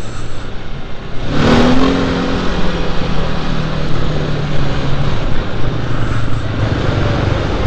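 Trail motorcycle engine opening up about a second in, then running steadily under load along a dirt track.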